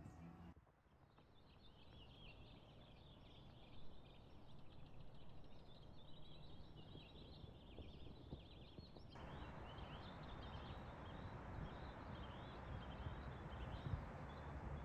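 Many small birds chirping rapidly and continuously over a steady background noise. The background noise grows louder about nine seconds in.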